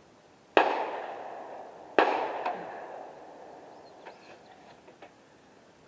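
Two rifle shots about a second and a half apart, each a sharp crack followed by a long echoing tail, then a few faint clicks.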